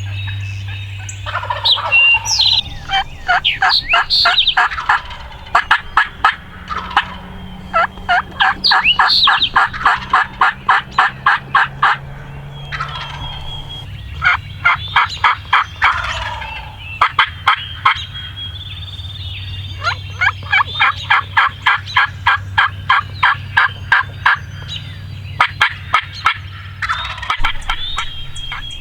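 Wild turkey calling: several long runs of rapid, evenly spaced notes, each run lasting a few seconds with short pauses between.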